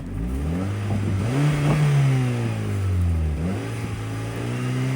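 Honda Civic engine revving up and down in repeated pulls, its pitch rising and falling several times, while the car sits stuck in a snowbank and does not move.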